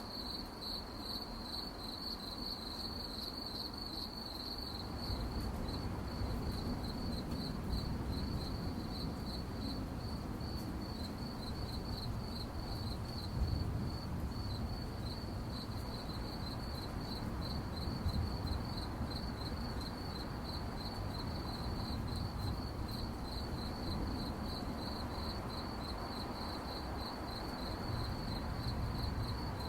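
Crickets chirping at night in a steady, rapid, even pulse, with a low rumble underneath that grows louder about five seconds in.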